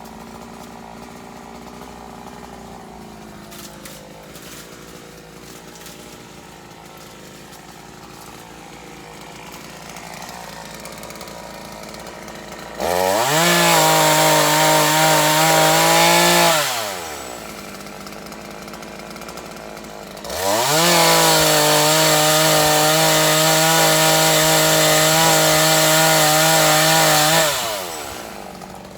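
Chainsaw idling, then revved to full throttle twice, once for about three seconds and then for about seven, its pitch rising as it speeds up and falling back to idle each time.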